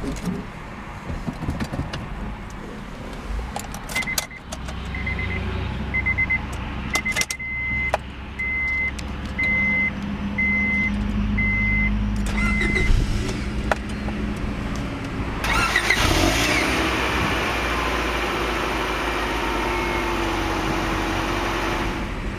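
Inside a 1999 Honda Prelude with its engine running: a few clicks, then a warning chime beeping about once a second for roughly nine seconds. About two-thirds of the way through, a loud, steady rushing noise comes on and runs on over the engine's low hum.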